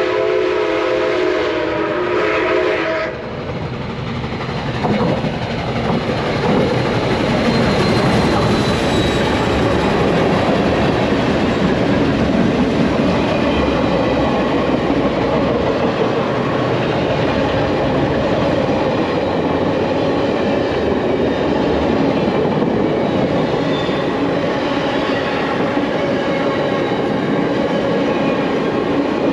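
A train whistle sounds a steady chord that cuts off about three seconds in. It is followed by the train passing close by, a steady loud rumble and clatter of wheels on rail, from the tour train led by steam locomotive CP 2816.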